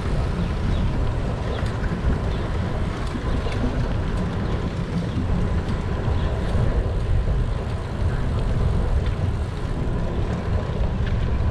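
Wind rumbling on the microphone of a camera on a moving bicycle, with city traffic noise underneath and a few faint ticks.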